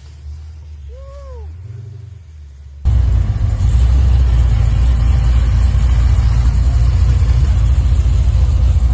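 Car engine rumbling low and steady, quiet at first with a brief rising-and-falling tone about a second in, then abruptly much louder about three seconds in.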